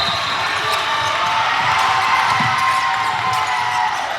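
Gym game sounds: sneakers squeaking on the court floor and a ball being hit or bounced a couple of times, over a steady crowd murmur.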